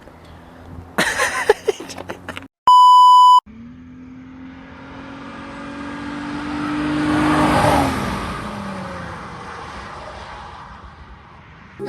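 A short bleep tone, then a car with a muffler-deleted V6 exhaust drives past: engine and exhaust grow louder to a peak and fade away, the pitch dropping as it passes. A few loud short noises come before the bleep.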